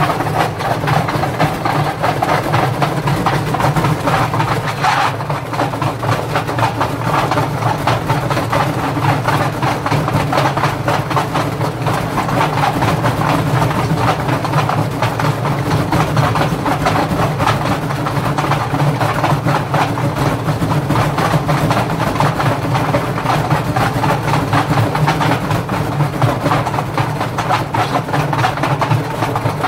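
Indesit washing machine running with heavy bricks inside the drum: a steady low motor drone under continuous rapid knocking and rattling.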